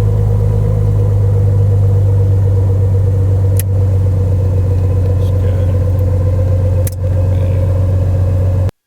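Mooney Ovation's six-cylinder Continental IO-550 engine idling steadily just after start, with two sharp clicks, likely cockpit switches, about three and a half and seven seconds in. The sound cuts off suddenly near the end.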